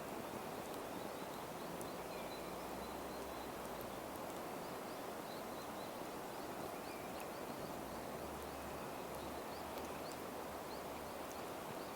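Steady outdoor background noise with faint, short bird chirps repeating throughout and a few small clicks.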